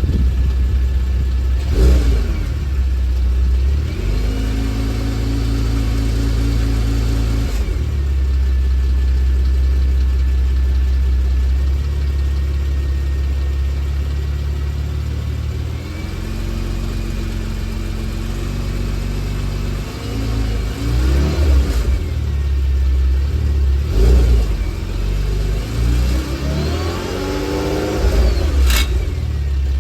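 Porsche Macan S twin-turbo V6 running and being revved up and down several times, with a metallic rattle under the engine sound that sounds like an old motorcycle's dry clutch, a known Macan fault.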